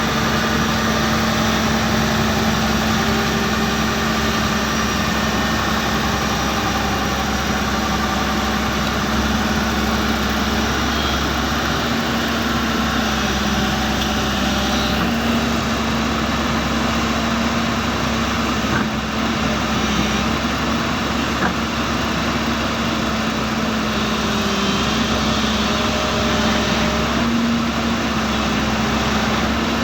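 Heavy diesel engine of a loading machine or truck running steadily at an even speed, a constant hum that wavers only slightly in pitch.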